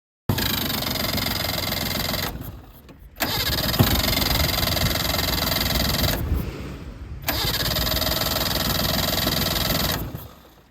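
Suzuki LJ50 three-cylinder two-stroke engine of a 1984 Jimny SJ30 being started after years of sitting. It turns over in three spells of about two to three seconds each, with short dips between, and the third fades out near the end.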